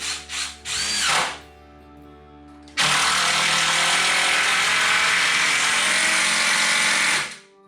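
Cordless drill driving screws into 2x4 framing. It gives a few short trigger pulses, a brief spin that rises and falls in pitch, then runs steadily for about four and a half seconds before stopping suddenly near the end.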